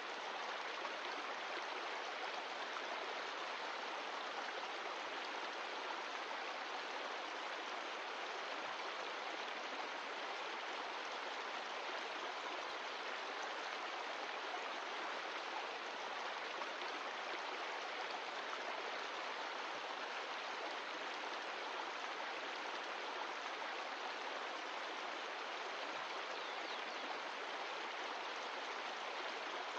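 Mountain stream of glacial meltwater rushing steadily over rocks, a constant even flow.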